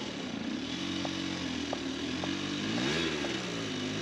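Off-road dirt bike engine revving on a steep hill climb, its pitch climbing and dropping twice in the second half as the rider works the throttle.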